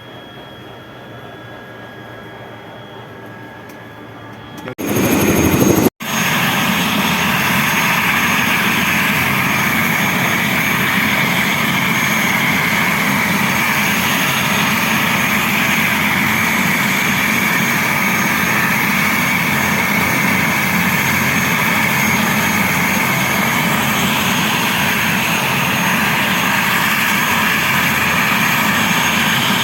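Airbus H125 helicopter running close by: the single turboshaft engine's whine and the rotor's rush, loud and steady. It comes in abruptly about five seconds in, after a quieter background, and cuts out for an instant a second later.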